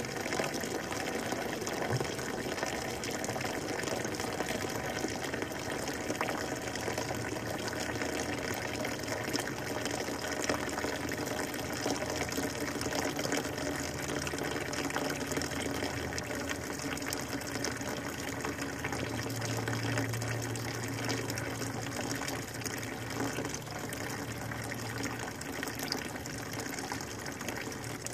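Gasoline-and-oil mixture pouring steadily out of the oil drain plug hole of a Honda engine block: the crankcase flooded with fuel through a stuck-open carburettor float. A low steady hum joins in for several seconds about two-thirds of the way through.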